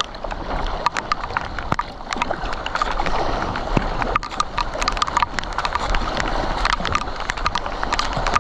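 Rain pattering on the sea and on a kayak, a dense scatter of sharp drop ticks over a steady hiss, with water sloshing and splashing around the kayak.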